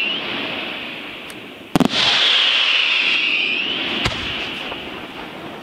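Aerial firework shells bursting: a sharp loud bang about two seconds in, followed by a long hiss that slowly falls in pitch and fades, and a second, smaller bang about four seconds in.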